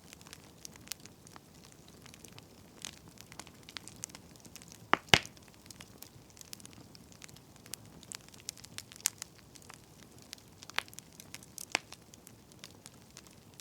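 Wood fire crackling: irregular sharp pops and snaps over a faint hiss, with one loud snap about five seconds in.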